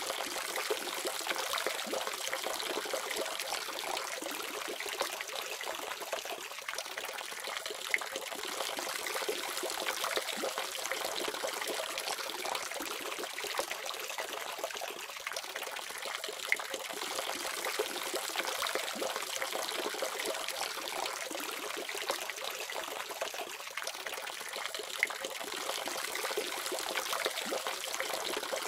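Water running steadily from a tap into a sink, an even splashing stream with a few brief sharper splashes.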